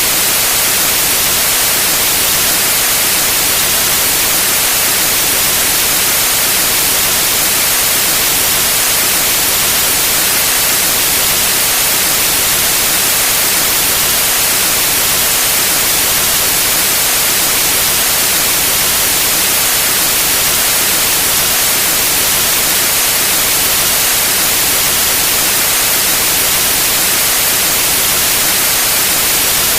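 Steady, unchanging white noise: a loud, even hiss that is strongest in the high end.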